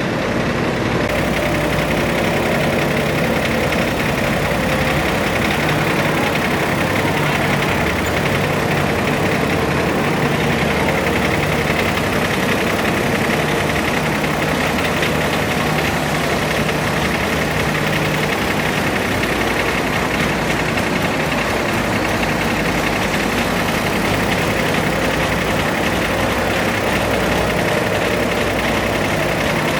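Modified garden pulling tractor's engine running steadily at idle, with no revving.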